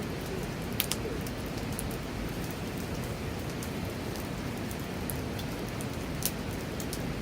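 Wood campfire burning, a steady hiss with a few sharp crackling pops.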